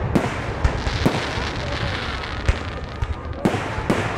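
A string of sharp pops and bangs at irregular intervals, about half a dozen, over a steady background din.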